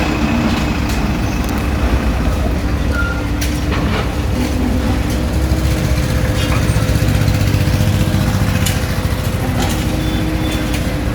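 Diesel engine of a JCB backhoe loader running steadily, growing louder for a few seconds in the middle, with scattered short knocks.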